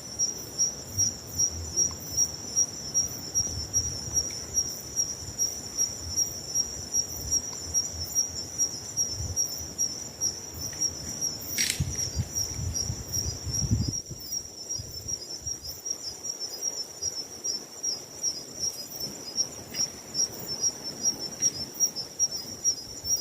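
Crickets chirping at night in a steady, high-pitched pulsing chorus, with a low rumble underneath for about the first half.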